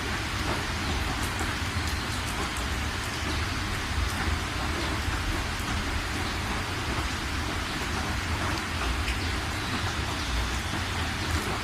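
Steady rain falling, an even hiss with scattered sharp drop ticks and a deep low rumble underneath.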